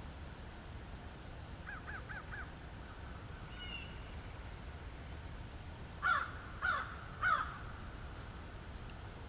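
A crow cawing three times, about half a second apart, a little over six seconds in. Fainter short calls of another bird come earlier.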